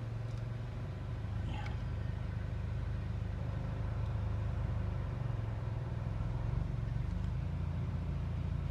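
Mercedes-Benz CLA 250's freshly rebuilt 2.0-litre turbocharged four-cylinder running steadily with an even low hum, growing slightly louder over the stretch; it runs cleanly, with no sign of the earlier cylinder 4 misfire.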